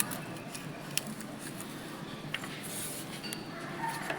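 A few sharp separate clicks and taps of hand tools on the metal valve gear of a Ford 5000 tractor engine during valve-clearance adjustment, over a steady low background hum.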